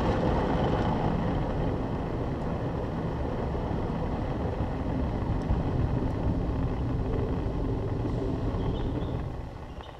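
Istobal M18 automatic car wash machine running over a car: a steady rumble and wash noise that falls away sharply near the end.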